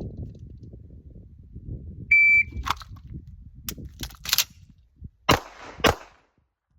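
Shot timer beeps once, then a Walther PDP pistol works through a failure-to-fire stage: a string of sharp reports and handling clicks over about three seconds, with the last two shots loudest.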